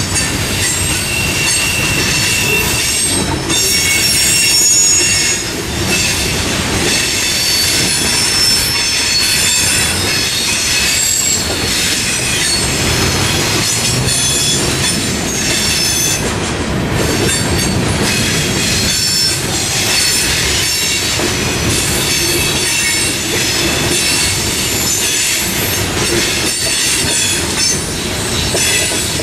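Two freight trains of hopper cars rolling past each other through a level crossing. There is a steady rumble of steel wheels on rail and clicking over the joints, with shrill wheel squeal that comes and goes.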